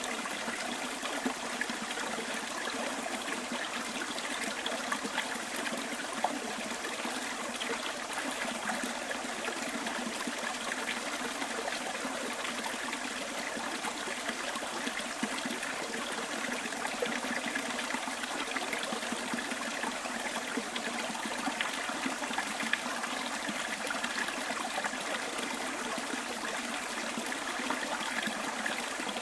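A small bush stream running over stones: steady trickling and babbling water.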